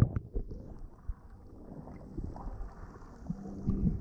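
Wind buffeting the microphone, with a low rumble.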